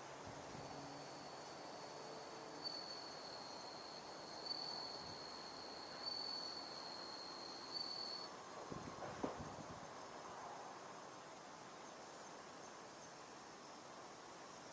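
Faint outdoor evening ambience of insects trilling: one steady high-pitched trill throughout, and a lower trill that starts about half a second in and stops after about eight seconds. A few soft ticks between about three and nine seconds in.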